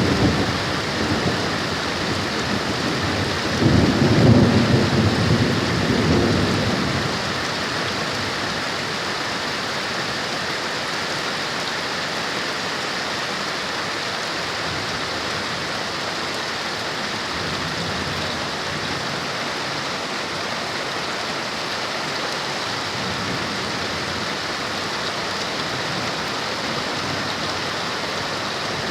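Heavy rain pouring steadily, with thunder rumbling at the start and again about four seconds in, dying away by about seven seconds.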